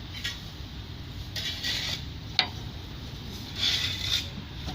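Rubbing and scraping as a car bonnet is raised and propped open, with one sharp click about halfway through.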